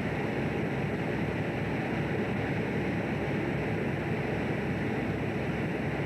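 Steady rushing noise on board a fishing boat at sea: the boat's engine and the water together, with no clear beat or change.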